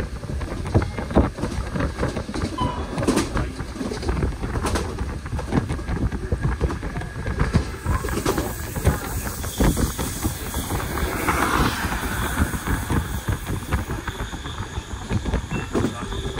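Berner Oberland Bahn electric train running up the valley to Grindelwald: a steady rumble with irregular knocks from the wheels on the rails, and a short hiss a little past halfway.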